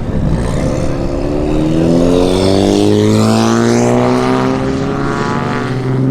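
A car engine accelerating hard, its pitch climbing steadily for about five seconds. A steady low engine drone runs beneath it.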